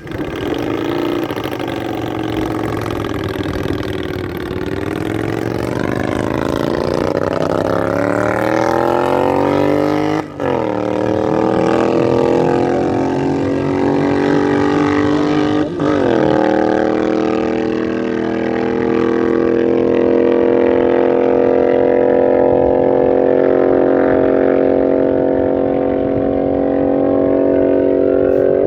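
Racing motorcycle engine accelerating hard through the gears, with two brief drops in pitch at upshifts about 10 and 16 seconds in. After the second shift it holds a steady high pitch at speed.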